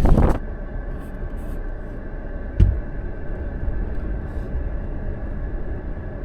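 Wind buffeting the microphone cuts off about half a second in, leaving the steady low rumble of a vehicle's cabin while driving, with a single sharp thump about two and a half seconds in.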